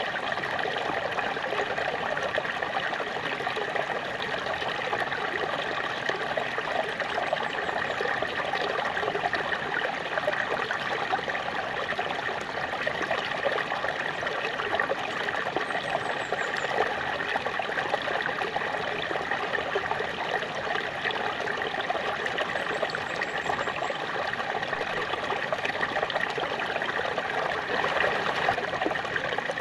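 Small waterfall splashing steadily, with a dense, even trickling rush of water.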